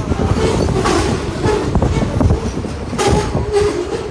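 Loaded freight train passing close by: the wagons' wheels rumble, with repeated clicks and knocks over the rails.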